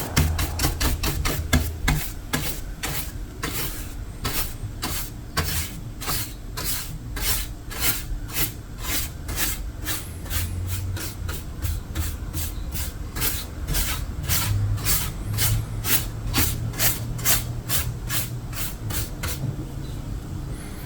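Repeated hand strokes of an abrasive tool rasping across an old painted finish to strip it, quick and regular at about two to three strokes a second, stopping near the end.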